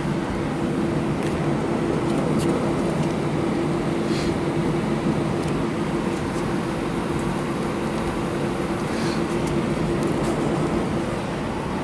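Steady hum of an airliner's jet engines and cabin air, heard inside the cabin while the plane taxis, with a constant low drone.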